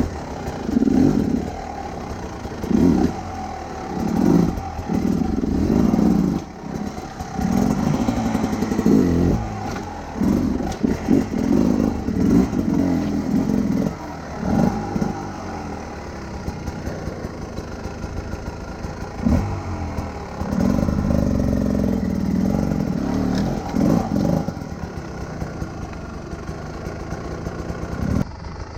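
Big adventure-touring motorcycle engine being ridden, the throttle opened in repeated pulls every second or two, then holding steadier running and settling lower near the end.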